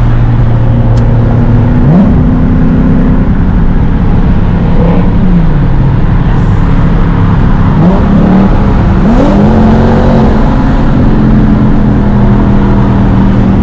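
Nissan Z sports car's V6 engine heard from inside the cabin while driving, its pitch climbing and falling several times as it accelerates and lets off, over steady road and tyre noise.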